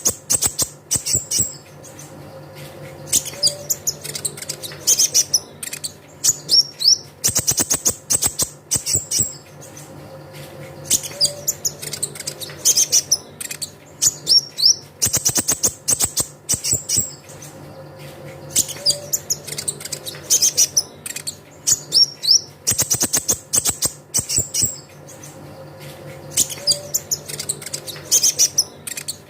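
Kolibri ninja (konin) sunbird song: high, rapid trills and sharp chirps, the same phrase pattern coming round about every eight seconds, as a looped lure recording.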